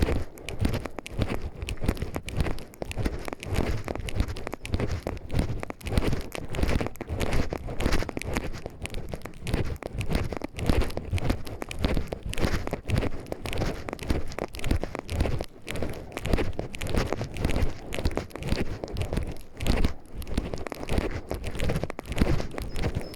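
Footsteps crunching through dry leaf litter and twigs on a forest path, at a steady walking rhythm.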